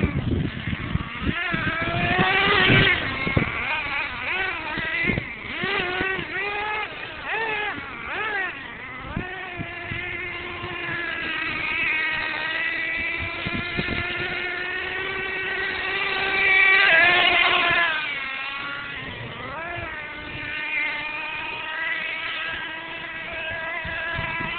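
Small high-revving engine of a radio-controlled monster truck buzzing as it is driven, its pitch swinging rapidly up and down with the throttle in the first several seconds, then running steadier, with one more surge about two-thirds of the way through.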